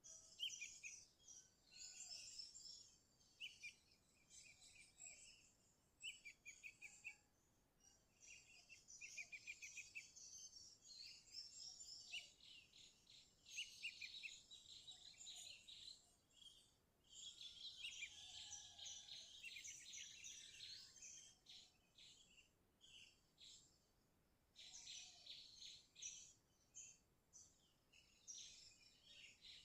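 Sooty-headed bulbul (kutilang) singing persistently: runs of quick, bubbly chattering phrases, high-pitched, broken by short pauses of a second or two.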